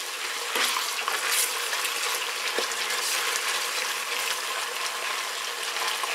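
Onions and tomato paste frying and sizzling in oil in an aluminium pressure cooker as a ladle stirs them, with a few brief scrapes of the ladle against the pot.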